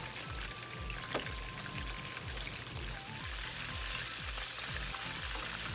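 Chicken wings frying in a pan of hot oil, a steady even sizzle. Background music with a steady low beat plays under it.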